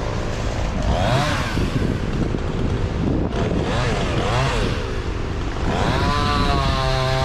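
Two-stroke chainsaw engine revved up and let back down several times, then opened up at about six seconds in and held at high revs.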